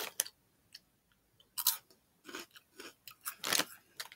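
A person chewing Flamin' Hot Limon Crunchy Cheetos, giving short, irregular crunches, roughly two a second, with quiet gaps between them.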